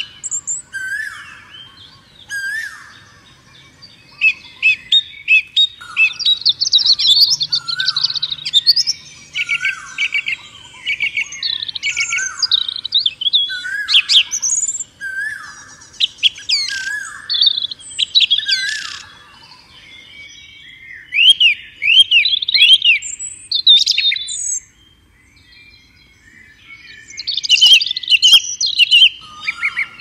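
Several songbirds chirping and singing together: a falling whistled note repeats about every second or so under busier chirps and trills, then a short lull late on before another burst of chirps.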